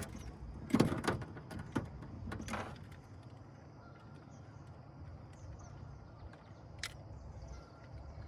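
Knocks and scuffs from handling a freshly caught largemouth bass to weigh it, loudest about a second in, then quieter with a single click near the end.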